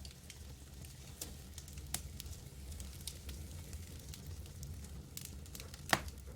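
Campfire crackling: irregular sharp pops and snaps of burning wood over a low steady rumble, with one louder pop near the end.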